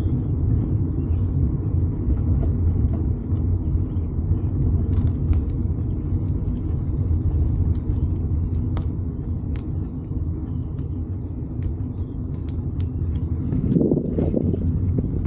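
Steady low rumble of wind on the microphone and road noise while riding a bike, with a few faint clicks. It swells briefly near the end.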